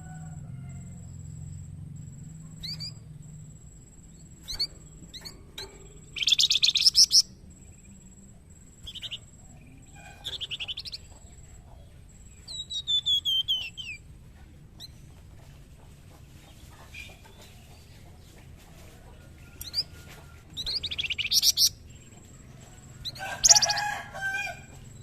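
Flamboyan songbird singing in separate bursts a few seconds apart: loud, rapid chattering trills and a falling run of whistled notes, over a faint steady low hum.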